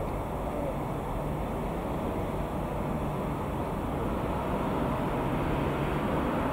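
A train approaching at low speed: a steady low rumble that slowly grows louder.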